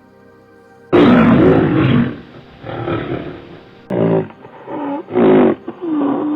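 A large wild animal roaring repeatedly: one long loud call about a second in, then several shorter calls.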